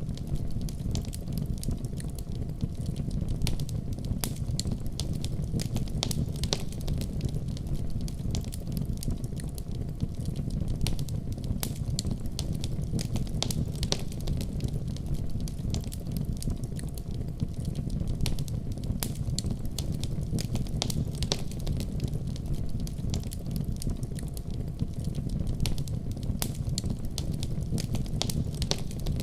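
Wood fire crackling in a fireplace, with frequent sharp pops and snaps at irregular moments over a steady low rumble.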